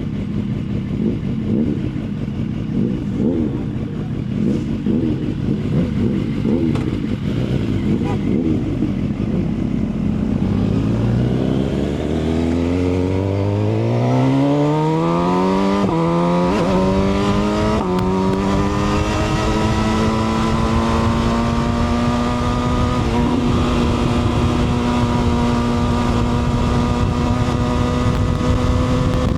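Motorcycle engine: a low uneven rumble at first, then the engine accelerating hard about a third of the way in, its pitch climbing through two quick upshifts, then settling to a steady cruise.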